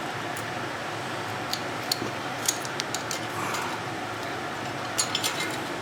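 Small metal parts and hand tools clinking and clicking as they are handled, in two clusters of sharp clicks, over a steady background noise.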